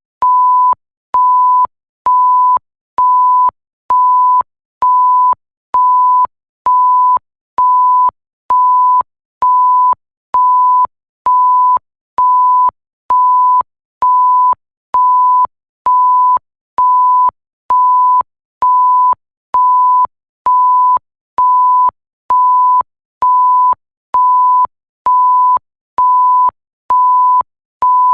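Electronic bleep sound effect: a single steady pure tone beeping over and over, about once a second, each beep a little over half a second long with short gaps between.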